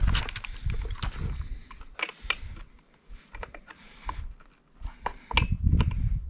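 Irregular clicks, taps and low knocks of hand work with tools and metal parts, with a louder cluster of knocks near the end.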